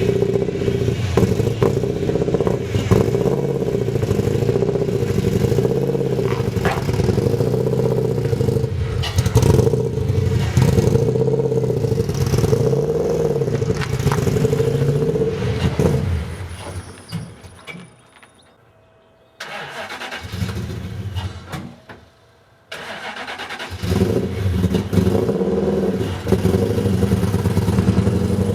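Toyota 1UZ-FE V8 engine running, its revs rising and falling in a steady cycle on an engine whose fuel mapping is not yet done. About sixteen seconds in it dies away to near quiet, with a brief spell of running in between, then starts up again a couple of seconds before the end.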